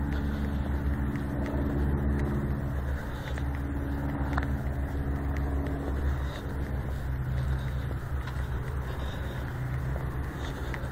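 A motor vehicle's engine running with a steady low hum, which fades about halfway through.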